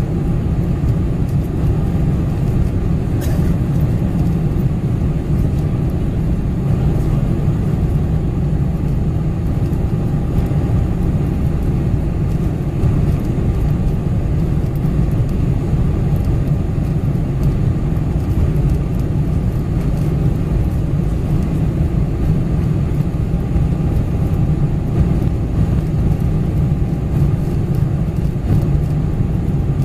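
Steady, deep cabin noise of a Boeing 747-400 in flight: engine and airflow noise heard from inside the passenger cabin, unchanging throughout.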